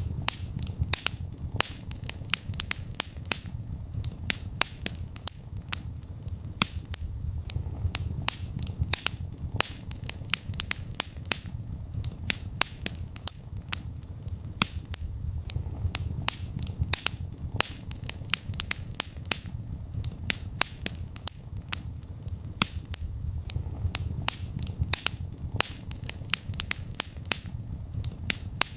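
Wood fire burning in a fireplace: many sharp crackles and pops at irregular intervals, several a second, over a low rumble of the flames.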